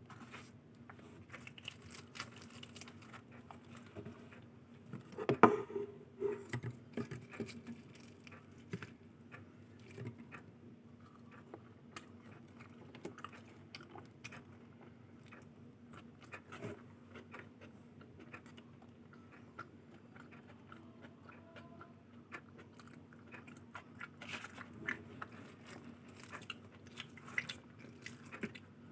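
A person eating close to the microphone, biting and chewing luchi with ghughni and aloor dum, with wet mouth clicks and occasional crunches; the loudest bites come about five seconds in. A faint steady hum runs underneath.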